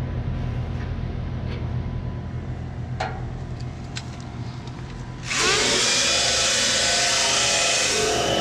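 Power tools running during frame work on a truck: a steady motor hum with a few sharp clicks. About five seconds in, a louder high-speed tool spins up with a rising whine and a loud hiss that keeps going.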